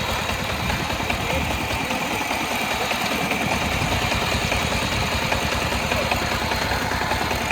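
Engine of a small Chinese-made tractor, rated about 13.46 horsepower, running steadily with a dense, even pulse of firing strokes.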